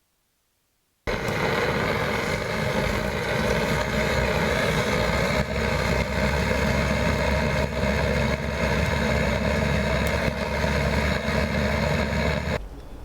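A steady engine-like running noise with a deep hum, starting abruptly about a second in and cutting off just before the end.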